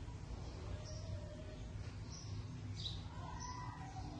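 Small birds chirping: short, high notes about once a second, one of them falling in pitch, over a steady low rumble.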